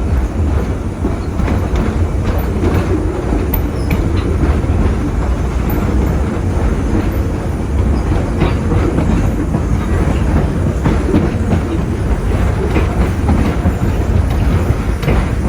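Rumble and clickety-clack of a steam-hauled passenger train's wheels running over the track, heard from aboard a coach, with scattered sharp clicks from the rail joints.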